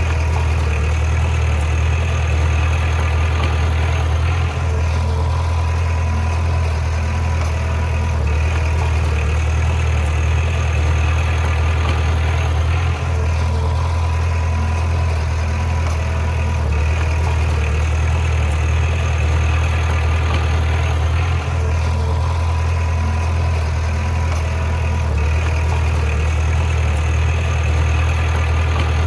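Heavy diesel engine of a bulldozer running steadily, with a deep low hum. A slight, regular change in the sound comes about every four seconds.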